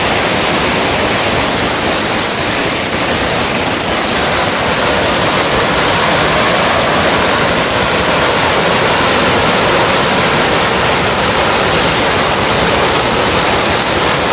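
Long strings of firecrackers going off in a dense, unbroken crackle, so fast that the bangs merge into one loud, steady rush of noise.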